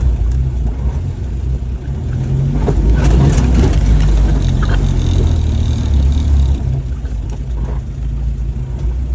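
Jeep engine running as the vehicle drives off, louder between about two and six seconds in as it accelerates, with a few short rattles and knocks over the rumble.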